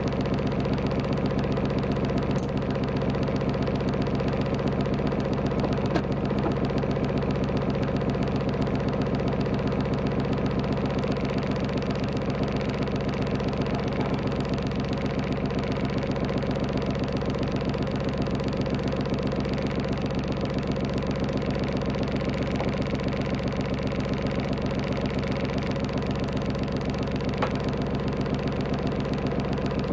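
A sailing yacht's engine idling steadily, with an even, unchanging beat.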